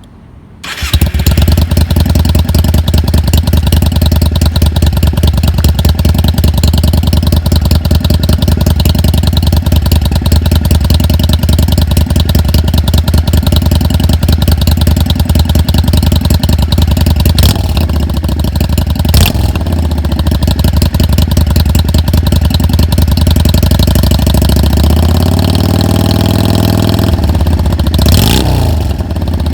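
Yamaha Drag Star 400 Classic's V-twin exhaust through an Easy Riders Fat Drag slash-cut muffler with its silencer in. The engine starts about a second in and idles steadily, then near the end it is revved a couple of times, the pitch rising and falling.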